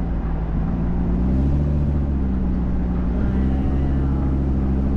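Car engine and road noise heard from inside the cabin while driving, with the engine's pitch rising about a second and a half in and again a little after three seconds.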